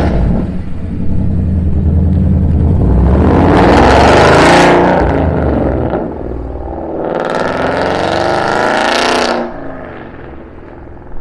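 Ford Mustang GT V8 running through a resonator-deleted exhaust with Roush performance mufflers, accelerating hard twice. The engine note climbs, then drops off about five seconds in, climbs again, and drops about nine seconds in to a lower steady drone. The exhaust is loud and raspy.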